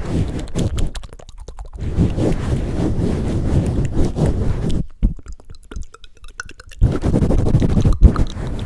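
Hands pumping and swirling directly over an ASMR microphone: muffled, low rumbling rubs. They ease off briefly about a second in and stop for about two seconds just past the middle, then start again.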